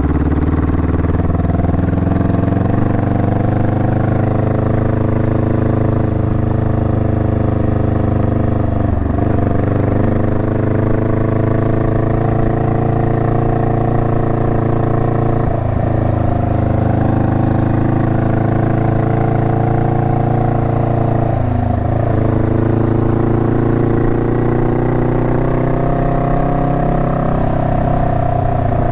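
Honda Rebel 500's parallel-twin engine running at road speed. Its note dips briefly and recovers about four times.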